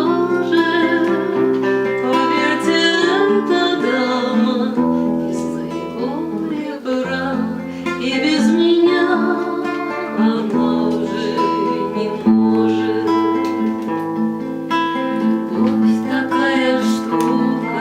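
Acoustic guitar accompaniment to a woman singing a Russian romance, with plucked bass notes changing every couple of seconds under the voice.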